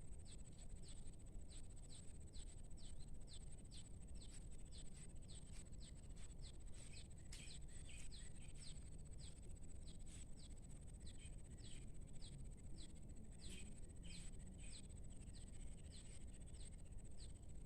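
A bird calling over and over in short falling chirps, about two a second, over a steady high whine and low outdoor rumble.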